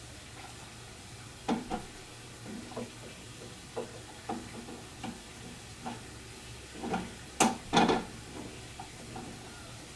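Irregular light knocks and clicks of small hardware and tools being handled while fitting washers and screws on a model airplane, with a louder clatter near the end, over a steady low hum.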